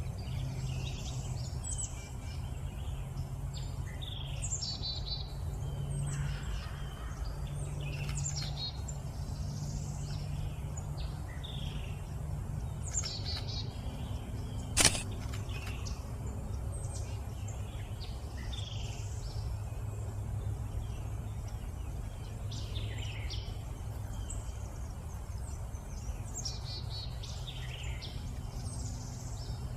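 Several songbirds chirping and trilling throughout, over a steady low background rumble. A single sharp click about halfway through is the loudest sound.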